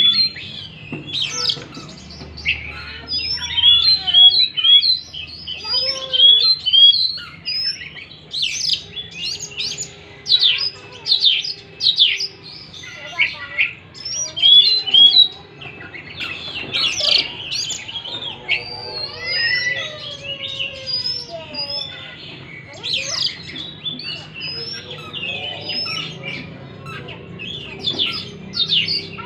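Oriental magpie-robin singing continuously: a rapid, varied run of chirps, short upswept whistles and trills.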